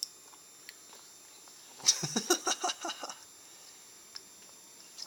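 A baby's voice: a quick run of short babbling sounds about two seconds in, lasting about a second.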